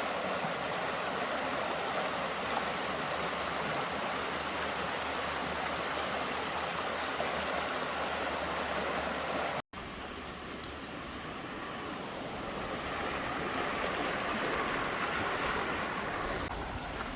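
Spring-fed stream running steadily, an even rush of flowing water. The sound cuts out for an instant about ten seconds in.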